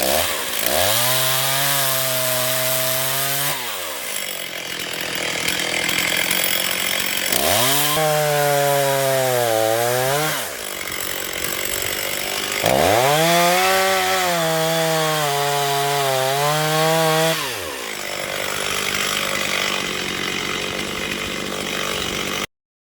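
Chainsaw revving up and held at speed under load three times, as in cutting through firewood logs, dropping back to idle between cuts. The sound cuts off abruptly near the end.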